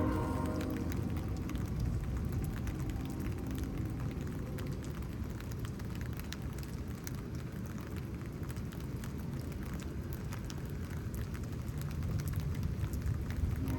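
Steady rain falling during a thunderstorm, with many small drop impacts ticking throughout over a low rumble.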